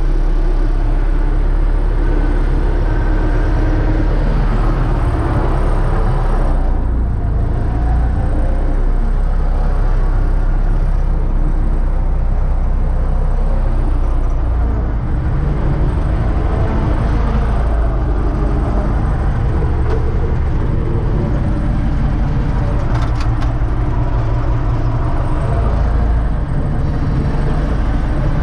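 Universal U650 tractor's diesel engine running steadily, pulling a SUP-21 seed drill.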